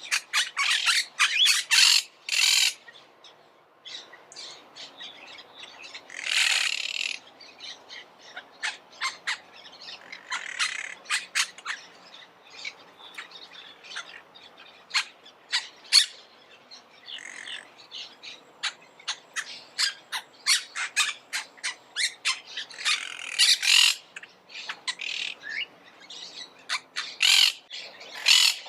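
Monk parakeets calling: a long run of short, sharp squawks and chirps in quick succession, with a few louder spells of harsher, denser calling.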